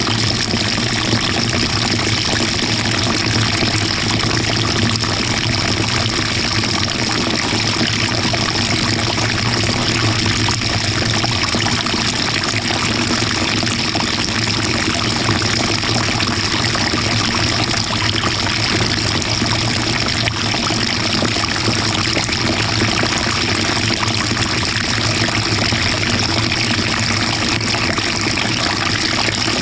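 Water pouring and splashing inside the drum of a 2018 GE GTW220ACKWW top-load washing machine, heard from the agitator, over a steady low hum.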